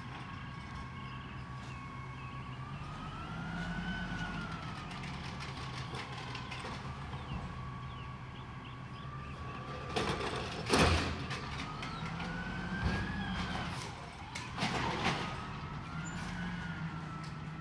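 Peterbilt 320 garbage truck with an Amrep packer body running its hydraulics: the diesel engine speeds up and settles twice, and a steady hydraulic whine rises and falls in pitch along with it. Two loud metal bangs come about 11 and 15 seconds in.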